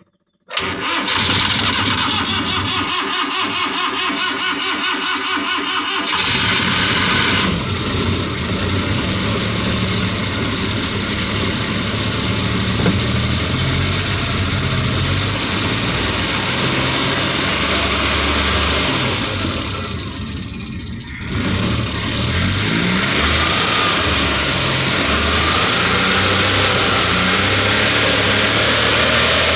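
Suzuki F6A three-cylinder engine cranking on the starter for about five seconds before it catches, a hard start, then running on. About two-thirds in, the engine speed sags briefly and picks back up.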